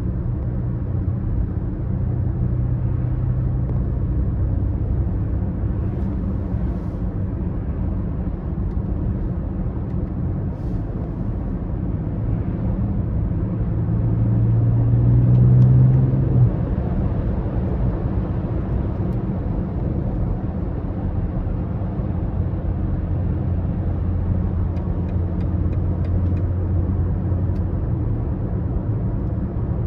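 BMW X5 30d's three-litre straight-six diesel engine running under way, with road noise. About halfway through the engine note rises and grows louder under acceleration, then drops off suddenly, and later settles into a lower, steady drone.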